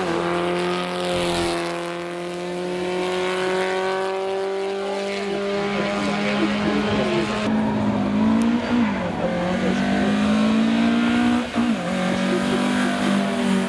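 Racing car engine held at steady high revs, its pitch dipping briefly and coming back up twice in the second half.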